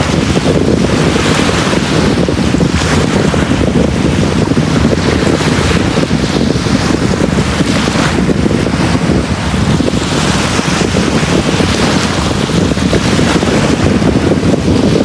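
Sea waves washing onto a beach: a continuous loud rush with a heavy low rumble, and swells of hiss rising every second or two as the surf breaks and spreads.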